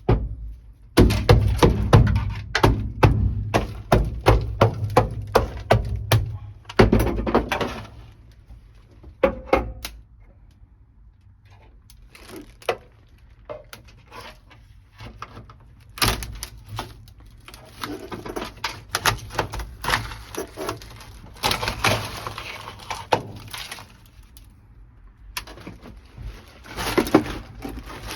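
Rapid, repeated knocks and taps on the car's body panel as frozen sound-deadening mat is struck, cracking and breaking loose. The knocks are dense for the first several seconds, then give way to sparser cracks, clicks and scraping as the pieces come away.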